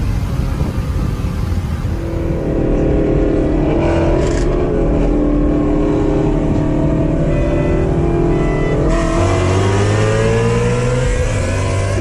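Ford Shelby GT350's 5.2-litre V8 running at a steady speed, then revving up as it accelerates about nine seconds in.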